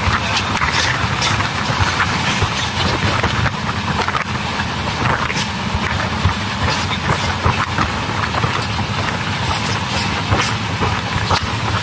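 LHB passenger coach running at speed: a steady rumble of wheels on rail with scattered irregular clicks.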